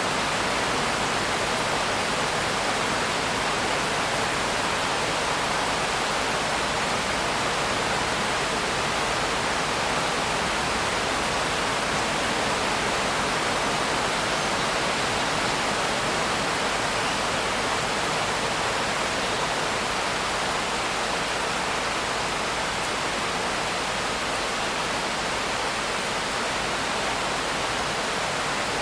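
Steady rain, heard as an even, unbroken hiss with no separate drops, thunder or other events standing out.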